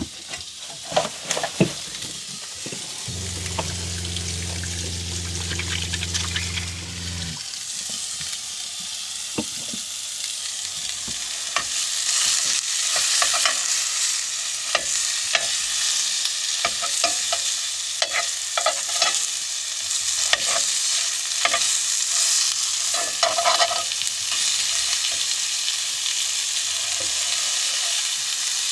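Pork sausage patties sizzling in a cast iron skillet, with a utensil clicking and scraping against the pan throughout. The sizzle grows louder about twelve seconds in. About three seconds in, a low steady hum runs for about four seconds.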